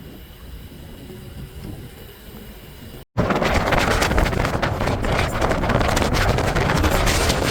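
Wind buffeting the microphone of a cyclist riding on a road. A fairly quiet rush for about three seconds, then a brief cut-out, after which the wind noise is much louder and gusty.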